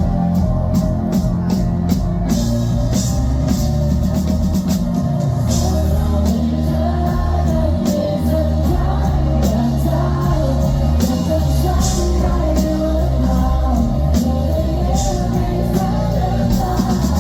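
Pop-rock band playing with a lead singer: steady drum kit, sustained bass and guitar, and a sung vocal line throughout.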